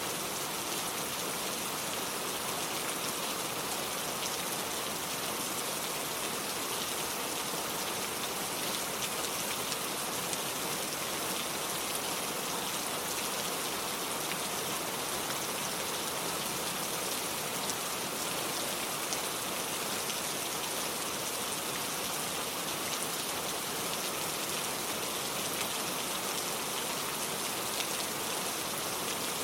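Steady rain falling: an even hiss at an unchanging level, with a few faint drop ticks scattered through it.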